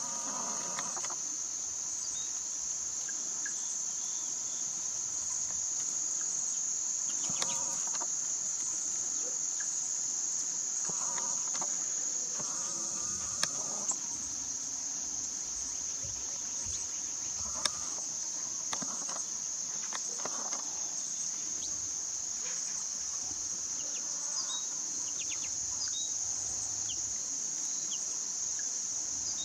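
Steady, unbroken high-pitched trilling of an insect chorus, with brief fainter sounds from time to time underneath.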